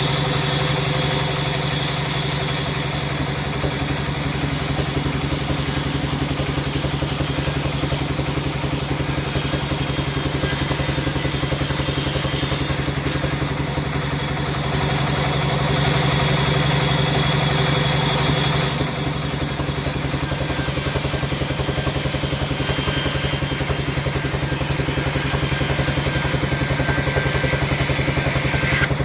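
Sawmill machinery running steadily: a loud motor-driven saw with a low hum and a fast even pulse, shifting slightly in tone twice along the way.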